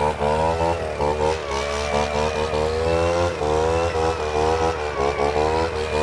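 EB-260 engine leaf blower revved in a rhythmic bosozoku-style 'call': the throttle is blipped over and over, so the engine pitch keeps rising and dropping in short swells, with a few longer climbs.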